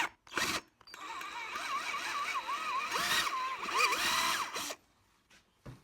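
Power drill with the larger, second-step bit drilling out a broken spoke in a wire wheel, running for about four seconds after a brief burst, its motor pitch wavering up and down under load.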